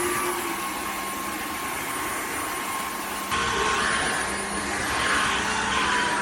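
Cordless wet-dry vacuum mop running over a muddy hard floor: a steady motor hum and rushing air with a thin high whine. About three seconds in the sound changes abruptly and becomes louder and hissier.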